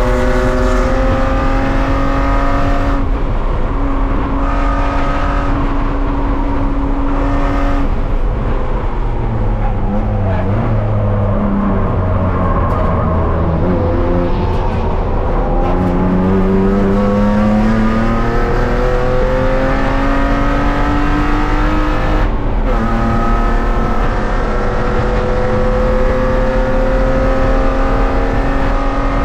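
BMW E36 race car's engine heard from inside its cabin at racing speed. The note climbs, drops and wavers low around the middle as the car slows through a corner, then climbs hard again with a quick gear-change break just past twenty-two seconds.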